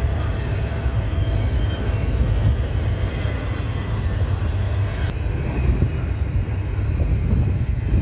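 CSX freight train rolling past, a steady low rumble with no letup.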